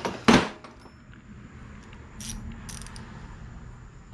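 Hand-tool work: a sharp knock near the start, then a short run of light clicks about two seconds in, like a ratchet being worked.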